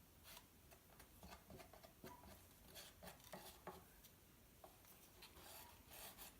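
Faint, irregular scraping and rubbing as acrylic paint is worked in a cup.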